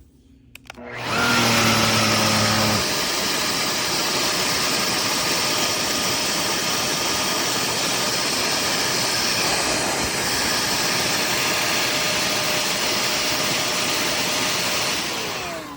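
Jimmy JV35 corded handheld mattress vacuum switched on about a second in and running with a steady rushing noise. Near the end it is switched off and its motor winds down with a falling pitch.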